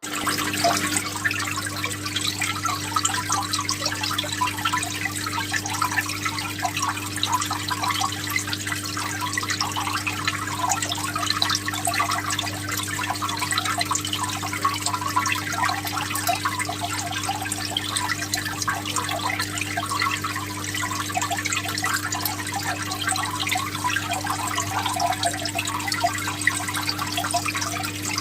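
Water bubbling and trickling in a fish aquarium, with a steady low hum underneath.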